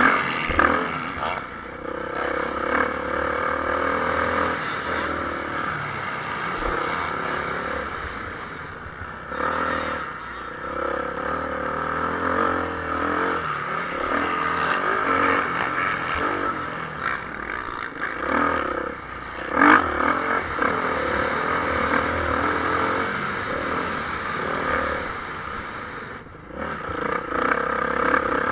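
Motocross bikes racing on the track, engines revving up and easing off continuously, with brief dips in loudness twice as the bikes pass or move away.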